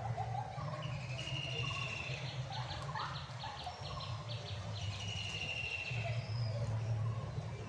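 Birds singing and calling: long trilled notes, and a run of quick repeated chips, about four a second, in the middle. A steady low hum runs underneath.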